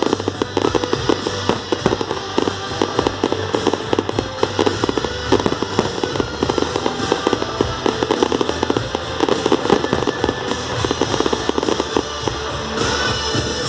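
Fireworks crackling in a dense, rapid run of small cracks many times a second, over guitar-led music.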